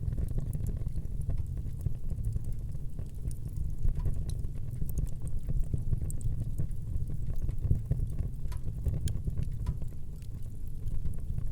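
Wood fire burning in a fireplace, crackling with many small sharp pops scattered irregularly over a steady low rumble.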